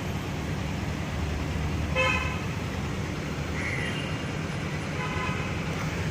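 Road traffic rumbling steadily, with two short vehicle horn honks, one about two seconds in and another near the end.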